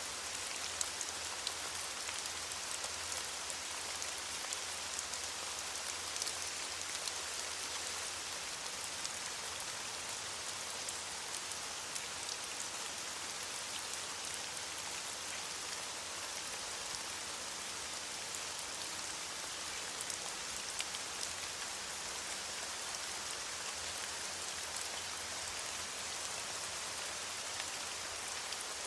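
Steady rain falling on leaves, a dense even patter of drops with scattered sharper drip ticks.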